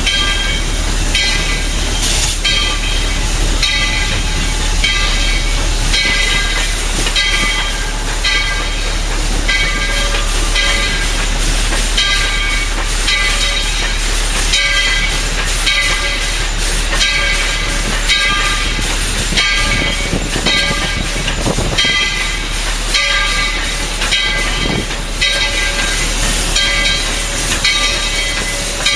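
Tweetsie Railroad's No. 12, a narrow-gauge 4-6-0 steam locomotive, running, heard from the cab: a steady beat repeating about once a second over a constant hiss.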